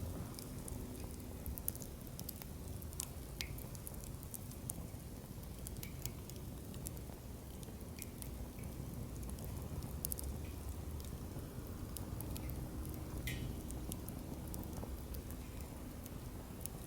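Wood campfire burning in a fire pit: a low steady rumble of flame with scattered sharp pops and crackles from the burning logs.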